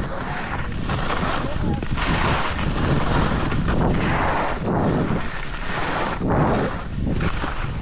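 Wind rushing over the microphone and snow hissing under the board or skis while riding fast downhill, the noise surging about once a second.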